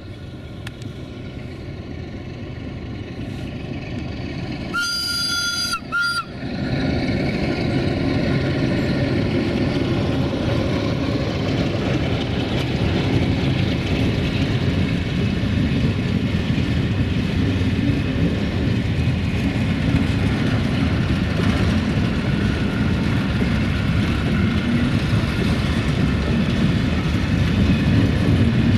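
CFR Marfa freight train hauled by a Sulzer-engined 060-DA (LDE2100) diesel locomotive, drawing closer and louder. About five seconds in, the locomotive sounds its horn: one blast of just over a second, then a short second toot. The freight wagons then roll past with a loud, steady rumble and clacking wheels over the rail joints.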